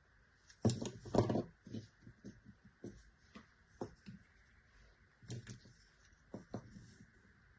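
Small plastic pieces of a miniature toy kitchen set being handled and set down: irregular light clicks and taps, the loudest pair about a second in and another cluster a little past the middle.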